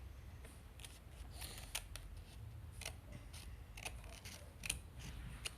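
Scissors cutting paper: a series of sharp, irregular snips.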